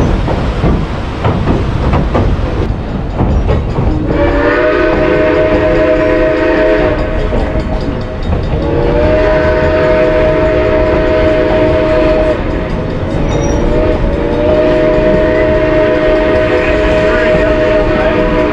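Narrow-gauge steam locomotive whistle sounding three long blasts, each a steady chord of several notes, over the rumble and clickety-clack of the moving train.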